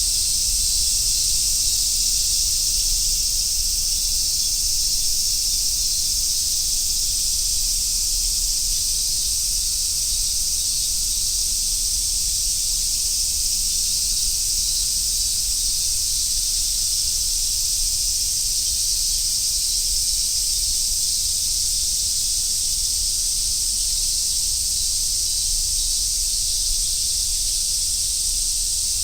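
Cicadas chorusing in summer woodland: a steady, unbroken high-pitched hiss, with a faint low rumble underneath.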